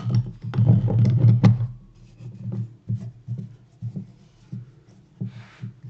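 Clicks and light knocks of hand-tool work on wooden pieces at a workbench: a quick flurry in the first two seconds, then scattered single taps, over a steady low hum.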